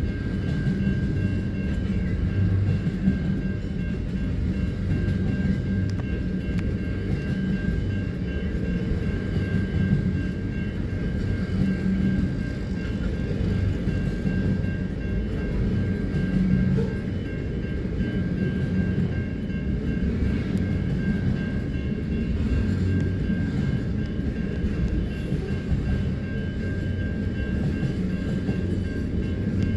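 Pacific National double-stacked intermodal container wagons rolling steadily past a level crossing: a continuous rumble of steel wheels on the rails, heard from inside a car.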